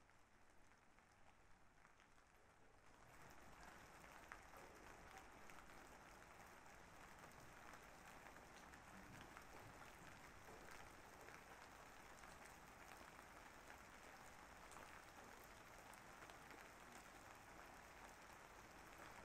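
Faint, steady rain patter with fine scattered drops, coming in about three seconds in.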